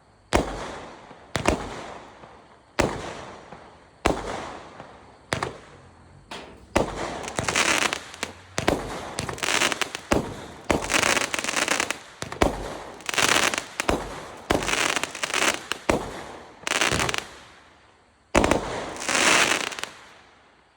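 Consumer fireworks cake firing shot after shot, about one every 1.4 seconds, each a sharp bang that dies away. From about seven seconds in, each shot is followed by a loud crackling burst. The last shot comes near the end and trails off as the cake finishes.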